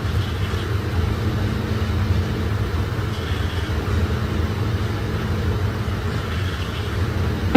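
Steady low rumble, like road noise heard inside a moving car.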